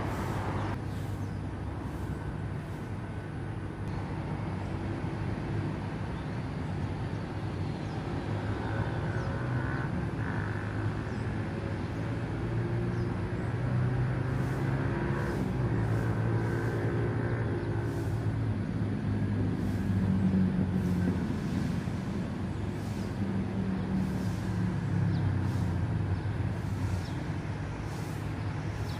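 Road traffic: vehicle engines running steadily, their pitch slowly rising and falling as vehicles idle and move.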